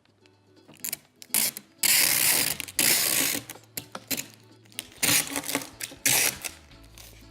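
Adhesive tape being pulled off the roll and pressed onto cardboard boxes. It starts with a few small clicks, then comes one long rasping pull of about a second and a half, and two shorter pulls near the end.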